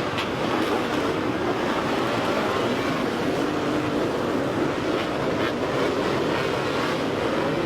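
Several dirt bike engines running at once in a steady, dense wash of engine noise, their pitches wavering as the riders work the throttle.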